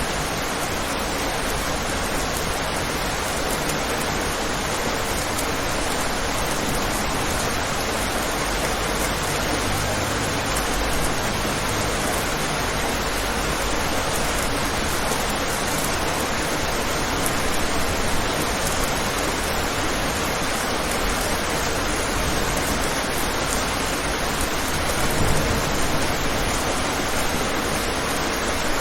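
Steady rain, heard as an even hiss with no breaks, with a few slightly louder spatters near the end.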